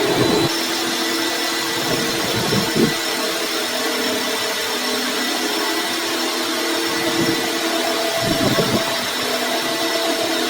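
Workshop machinery running steadily: a constant mechanical drone with a hum and hiss, a few brief swells in level, and a sudden change about half a second in where the footage is cut.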